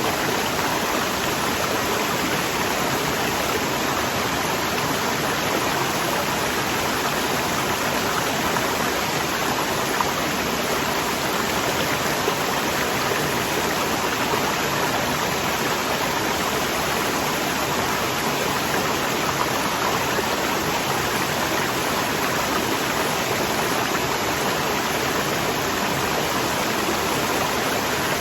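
Waterfall: water rushing steadily with an even, unbroken hiss and no changes.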